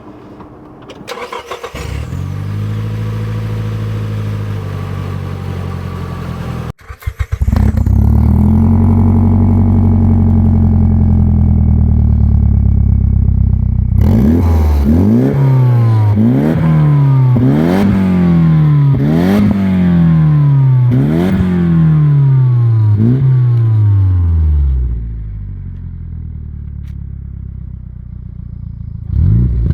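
Nissan 200SX's SR20DET turbocharged four-cylinder starts about a second in and runs through an Invidia exhaust. Partway through it is blipped about seven times in quick succession, each rev rising and falling. Between revs the turbo flutters and whooshes off-throttle, the sign of compressor surge and the blow-off valve venting boost. It then drops back to a quieter idle near the end.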